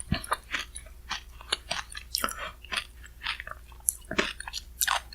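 Close-miked chewing of shaved-ice bingsu: quick, irregular crunchy and moist mouth clicks of ice and toppings being chewed.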